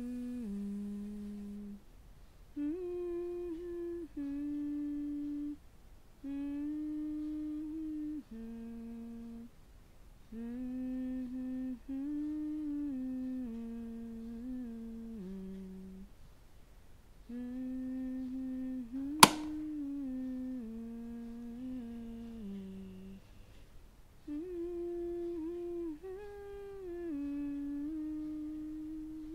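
A woman humming a slow tune wordlessly, in short phrases separated by brief pauses, the notes stepping up and down. A single sharp click cuts in about two-thirds of the way through, louder than the humming.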